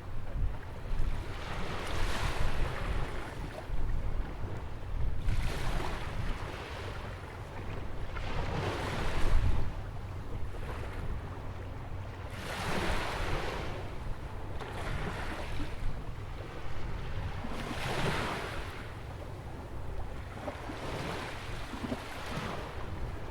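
Ocean waves breaking and washing in at a jetty on a sandy beach, each wave swelling and fading every few seconds over a steady surf hiss. A low wind rumble on the microphone runs beneath.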